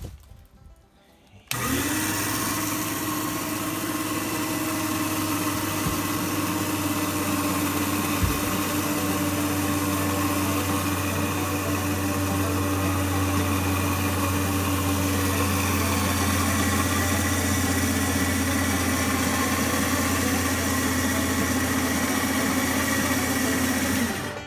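Powered winch motor running steadily, reeling in cable through two pulleys to hoist a deer carcass. It starts about a second and a half in and stops just before the end.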